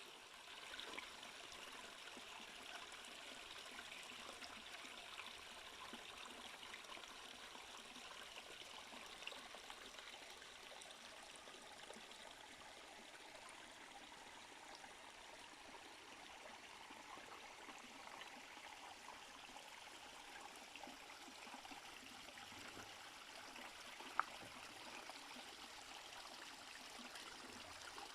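Faint, steady rush of a stream's flowing water, with one brief sharp click near the end.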